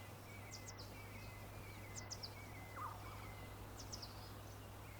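Faint nature ambience of small birds chirping in short high calls every second or two, with one lower falling call about three seconds in, over a steady low hum.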